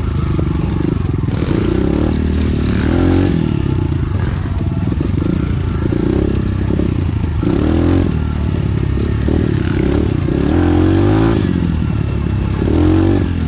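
Enduro motorcycle engine running under load, its pitch rising and falling again and again as the throttle is opened and closed.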